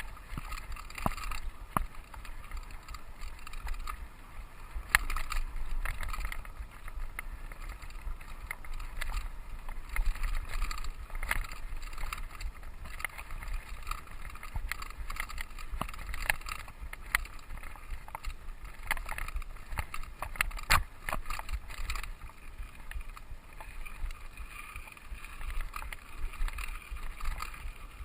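Mountain bike being ridden over a dirt trail: a steady low rumble of tyres and wind, broken by frequent short rattles and knocks as the bike goes over bumps.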